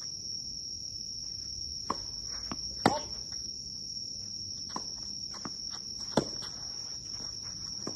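Tennis ball struck by rackets and bouncing on the court during a rally: about five sharp pops, the loudest about three seconds in. A steady high-pitched drone of insects runs underneath.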